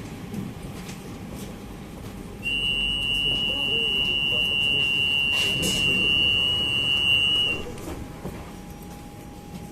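Prague tram's electric warning buzzer: one steady, high-pitched tone lasting about five seconds, starting a couple of seconds in and cutting off, over the low rumble of the tram interior.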